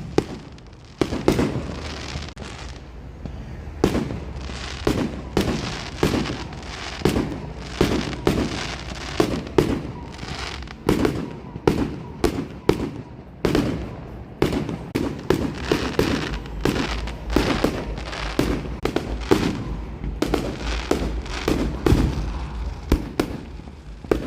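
Fireworks going off in a long, irregular barrage of sharp bangs, often several a second, each with a short echoing tail, over a steady low rumble.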